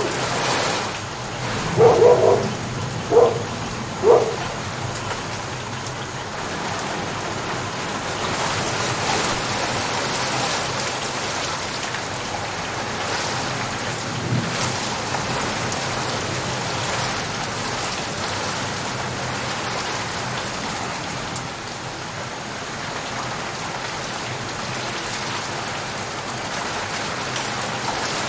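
Steady rain falling. A dog barks three short times in the first few seconds.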